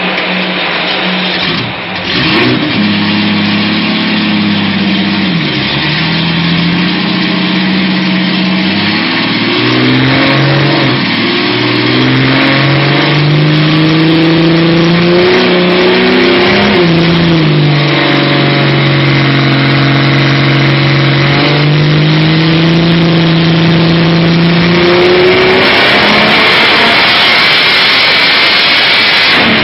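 Supercharged Holden six-cylinder engine running under throttle, its pitch shifting up and down with steady holds between changes. Over the last few seconds a louder rushing noise rises over the engine note.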